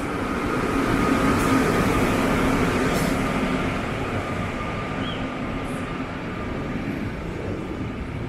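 Train rolling along the tracks, growing louder over the first second or so and then holding steady, with a thin steady high whine over the rumble.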